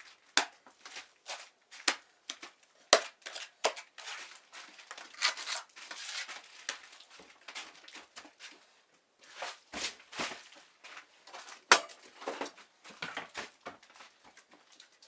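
Irregular short scrapes and sharp clicks of hand tools at work on a wall, with crinkling noises in between.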